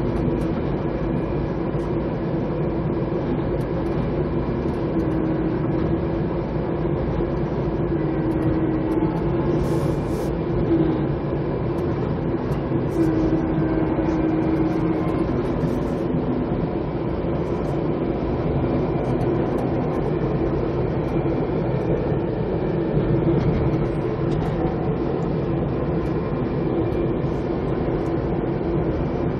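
Steady running noise of a passenger train car in motion, heard from inside the car: wheels rolling on the rails and the car body rumbling. A faint tone comes and goes, and there is a single sharp click about ten seconds in.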